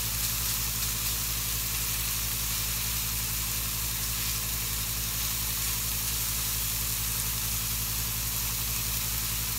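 Filet mignon steaks, butter and mushrooms sizzling steadily in a hot cast iron skillet, with a steady low hum underneath.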